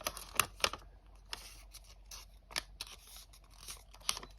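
Square of origami paper being folded in half and creased by hand: a scatter of short, sharp paper crackles and ticks, closest together in the first second.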